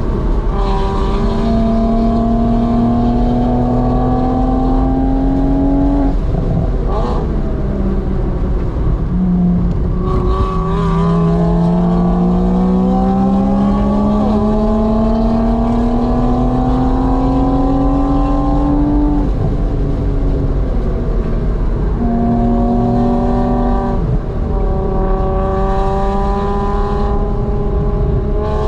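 Porsche Boxster S flat-six engine heard from inside the cabin, pulling hard with its note rising slowly and steadily. The note breaks off and drops about six seconds in, again near the nineteen-second mark and briefly around twenty-four seconds, then climbs again each time. Road and wind noise run steadily underneath.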